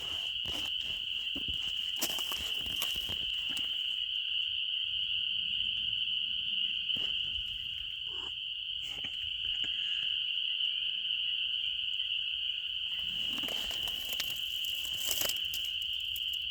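Steady, unbroken high-pitched chorus of insects such as crickets. Scattered rustles and clicks come over it in the first few seconds and again near the end.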